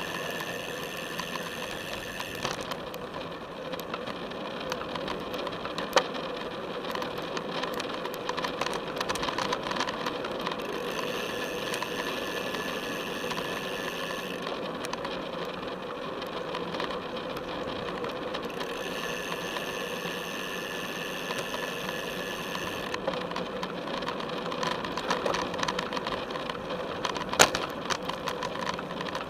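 Felt F75 road bike being ridden, heard through its own frame: a steady whir of drivetrain and tyres with a light rattle. Two sharp knocks, about six seconds in and near the end, likely bumps in the path.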